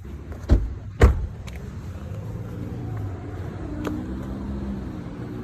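Two sharp thumps about half a second apart, then the steady low rumble and droning hum of a light-rail car running.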